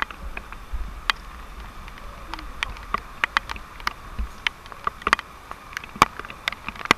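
Water drops tapping irregularly near the microphone in steady rain, sharp little ticks several times a second over a low wind rumble.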